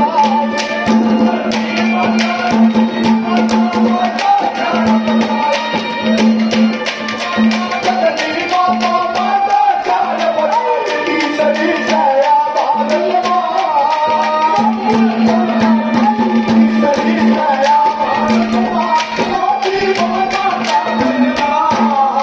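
Haryanvi ragni folk music: quick hand-drum strokes throughout, with a shifting melody over a steady held drone note.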